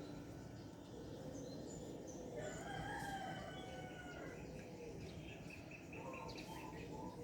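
A rooster crowing once, a single drawn-out call about two and a half seconds in, with small birds chirping near the end.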